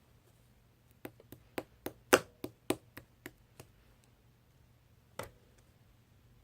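Pink clear slime being pressed and squeezed by hand, giving a quick run of sharp clicking pops, then a single pop near the end.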